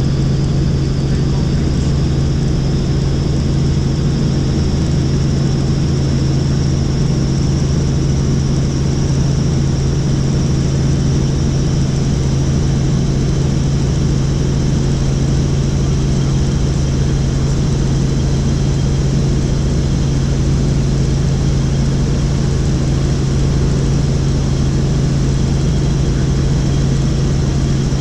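Helicopter in flight: a steady, unchanging drone of rotor and engine with a low hum and a faint high whine above it.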